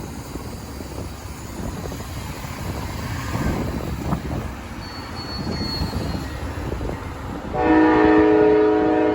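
Amtrak passenger train's diesel locomotives rumbling as the train pulls out of the station. Near the end the locomotive horn sounds once, a steady chord held for about a second and a half, the loudest sound here.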